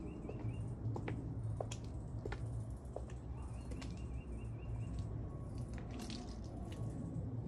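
A small bird's short trill of quick chirps, heard twice, over light footsteps and clicks on a concrete garden path and a low steady rumble.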